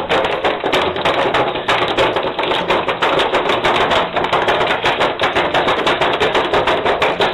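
Rapid, dense clattering taps, many a second, without a break.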